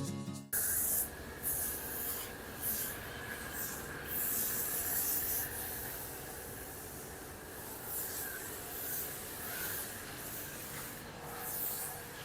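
Car being washed: repeated bursts of hissing water spray against the bodywork over a faint steady machine hum.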